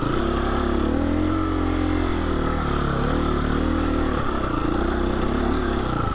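2020 Husqvarna 350 FE's single-cylinder four-stroke engine running on a trail ride, its pitch rising and falling with the throttle through the middle seconds.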